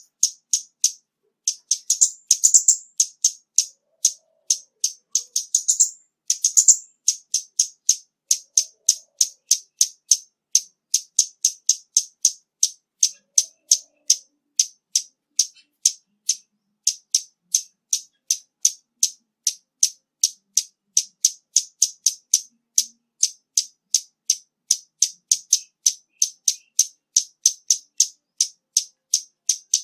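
Female scarlet-backed flowerpecker calling: short, sharp, high chip notes repeated about twice a second, with two quicker runs of twittering notes in the first several seconds.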